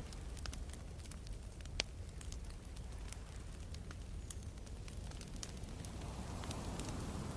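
Wood campfire crackling with scattered sharp pops, one louder pop a little under two seconds in, over a steady low rumble of sea waves. Near the end a wave washes in, swelling louder.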